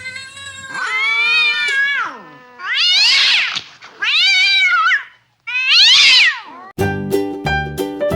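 A cat meowing loudly four times: one long, drawn-out meow, then three shorter meows that rise and fall in pitch. Piano music with a beat comes in near the end.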